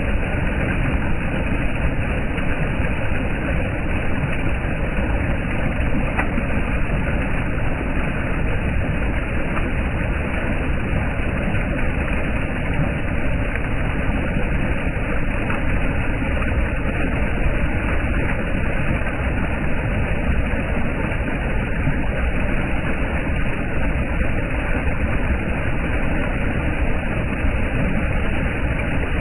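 Floodwater pouring over a dam, a loud steady rushing of water.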